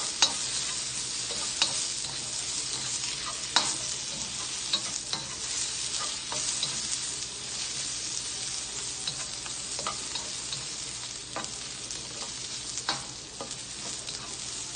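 Sliced zucchini frying in a nonstick wok with a steady sizzle, being browned, while a slotted spatula stirs it, tapping and scraping the pan at irregular moments.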